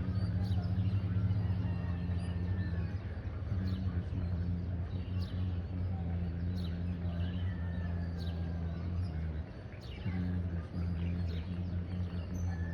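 Outdoor birds chirping at sunrise, with one short call repeating about every second and a half, over a steady low hum that dips briefly near the end.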